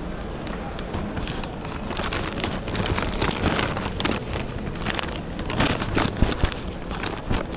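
Wind and rain noise on the microphone, a steady rushing hiss broken by many irregular crackles and knocks.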